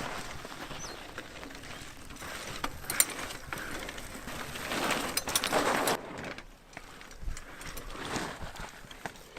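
Mini mountain bike ridden over a dirt jump trail: tyres rolling on dirt with clicks and rattles from the bike, the noise swelling and fading, with a short lull a little past the middle.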